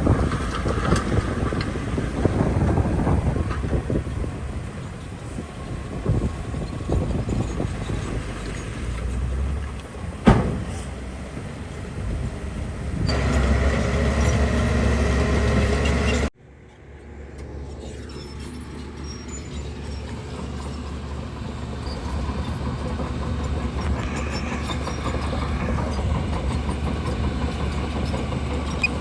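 Bulldozer's diesel engine running under load, with a sharp metallic knock about ten seconds in. The sound cuts off suddenly about halfway through and comes back quieter.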